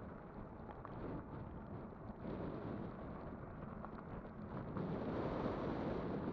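Wind buffeting the microphone while riding an e-bike, over a rough road rumble; it grows louder about five seconds in.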